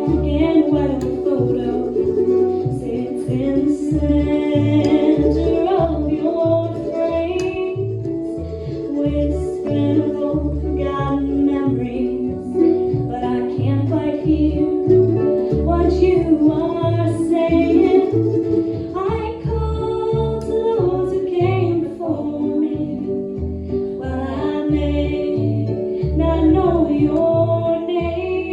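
Harp, mandolin and upright bass playing a bluegrass tune, with the bass plucking an even, steady beat under the plucked melody.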